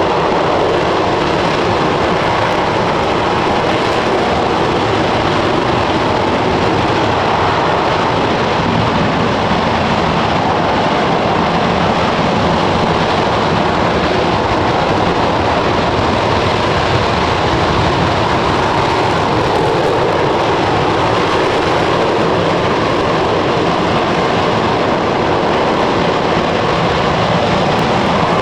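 Steady roar of an RS-25 liquid-hydrogen/liquid-oxygen rocket engine firing continuously during a full-duration hot fire test, with unchanging loudness.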